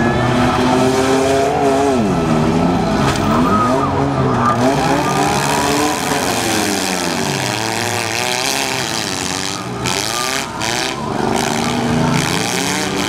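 Several four- and six-cylinder demolition derby car engines revving hard and dropping back, over and over, their pitches overlapping and swinging up and down as the cars push and ram each other.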